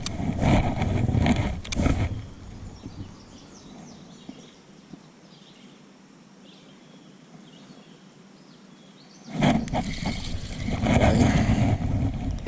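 Loud, low outdoor noise on the microphone for about the first two seconds. After that comes a quiet stretch with faint bird chirps, and the low noise starts again suddenly near the end.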